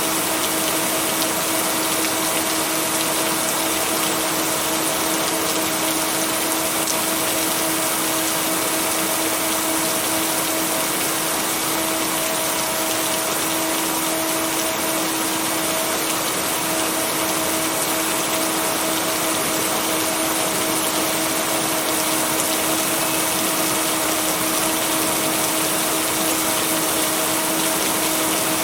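Steady heavy rain, an even hiss that does not change, with two steady low tones held underneath: the binaural-beat tones blended into the rain track.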